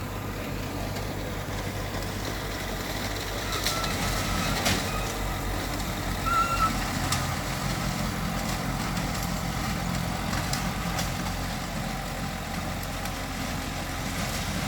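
Heavy diesel earthmoving machinery running steadily, its engine rumble swelling a little around the middle, with a few short metallic knocks.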